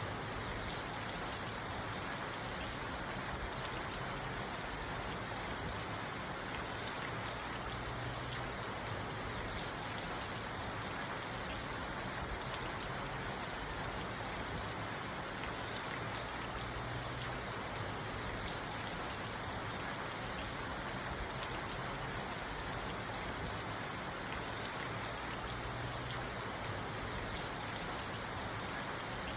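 Steady rain falling on a parked car, heard from inside the cabin, a dense even patter of drops on the roof and glass.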